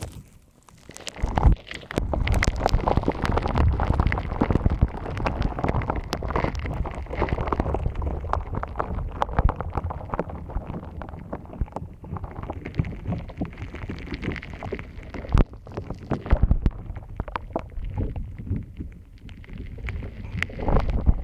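Crunchy shaved-ice-style slime being squeezed and kneaded by hand close to a binaural microphone: dense crackling and popping with low squishy thuds, starting about a second in.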